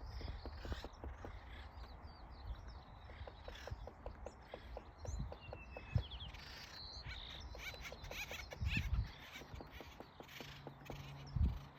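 Woodpecker pecking at wood: runs of quick, sharp taps, several a second, with birds chirping high above them. A few louder low thumps stand out, the sharpest about six seconds in and another near the end.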